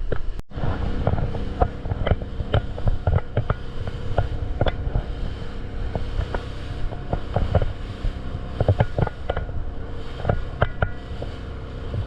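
A fishing boat's engine running steadily, with irregular knocks and clicks over it. The sound drops out completely for a moment about half a second in.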